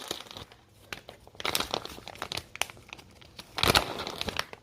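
Plastic cheese packaging being crinkled and torn open by hand, in irregular bursts with a louder rip near the end.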